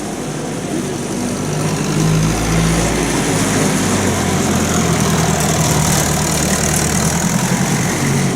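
Tractor engines running, growing louder about two seconds in.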